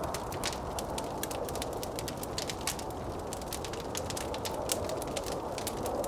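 Wood fire crackling with many quick, sharp pops, over a steady rush of wind that swells and eases slowly.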